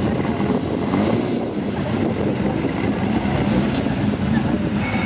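Classic cars' engines running at low revs as one car drives slowly away, a steady low rumble.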